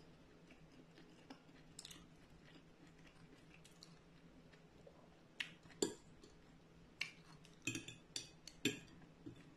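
Close-up eating sounds of fried tofu in oyster sauce: faint at first, then a run of about seven sharp, wet clicks of chewing and of a metal fork on a ceramic plate in the second half.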